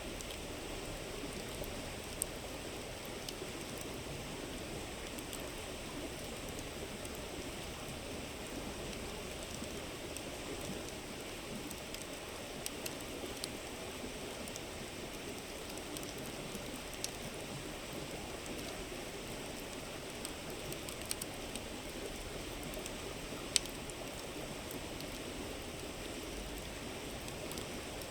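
River flowing steadily, with a campfire crackling now and then: a few scattered sharp pops, the sharpest one near the end.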